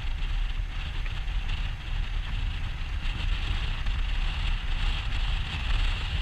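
Wind buffeting an action camera's microphone on a moving motorcycle: a steady, fluttering low rumble with engine and road noise underneath.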